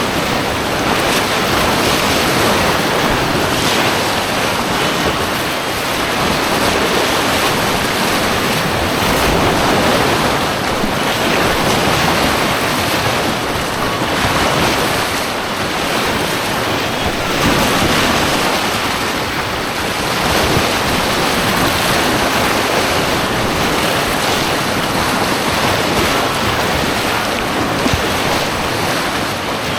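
Rushing white water of an artificial course around a kayak: a loud, steady rush of turbulent water.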